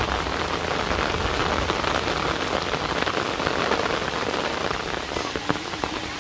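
Heavy rain coming down steadily: a dense, even hiss with many small sharp drop hits scattered through it.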